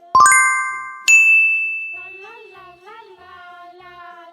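Two bright bell-like chime dings, the first a quick cluster of strikes and the second a single higher ring about a second later, each ringing out and fading. Soft background music plays underneath.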